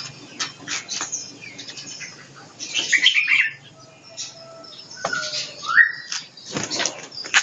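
Caged white-rumped shamas moving about, with wing flutters, small knocks and short chirps, and a couple of quick rising calls about five seconds in.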